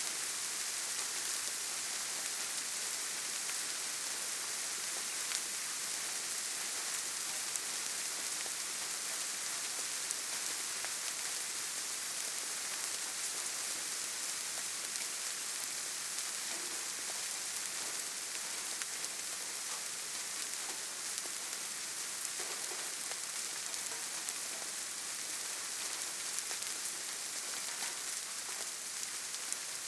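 Steady rainfall: an even hiss of rain with many small drop ticks throughout.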